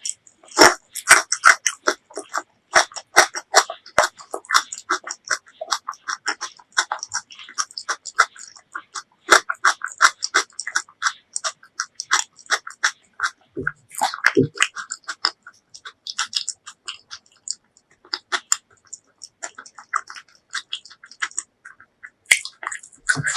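Close-miked chewing of braised pork leg: a fast, continuous run of wet mouth smacks and clicks, with a short pause and a couple of dull knocks about halfway through.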